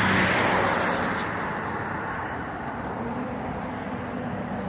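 Street traffic: a passing vehicle's rushing road noise, loudest at the start and fading away over the first couple of seconds, leaving a steady lower traffic hum.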